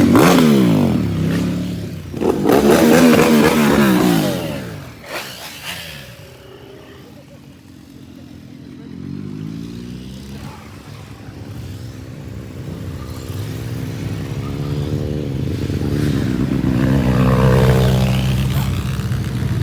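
Motorcycles riding past one after another. Two loud pass-bys come in the first five seconds, each engine note dropping in pitch as the bike goes by. More bikes then approach, their engines growing steadily louder through the second half.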